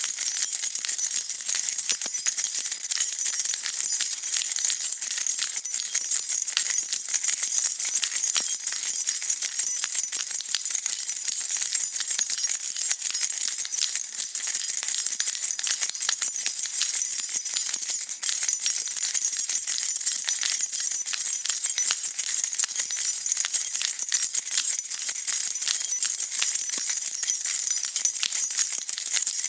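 A bunch of keys jingling continuously as they are shaken: a steady, unbroken stream of bright little metallic clinks.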